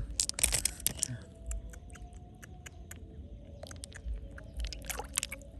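Quick runs of sharp clicks and scrapes of hard objects being handled, one run in the first second and another near the end, over a faint steady hum.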